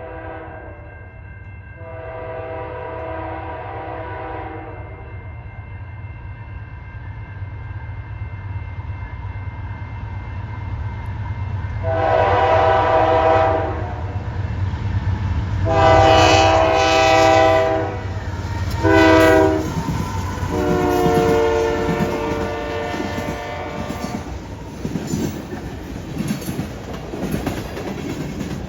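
Diesel freight locomotive air horn blowing a fainter long blast. Several seconds later it sounds the grade-crossing signal, long, long, short, long, louder, over a steady low locomotive rumble. In the last few seconds the train's wheels clack over rail joints and the junction switch.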